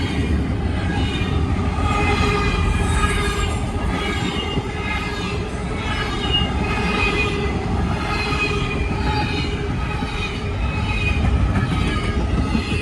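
Train cars rolling past on the rails with a steady heavy rumble. High-pitched wheel squeal rises and fades every second or two.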